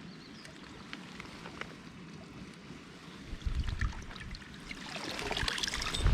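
Mountain stream running water with scattered small clicks. Low rumbles on the microphone start about halfway through, and a louder crackling rustle builds near the end.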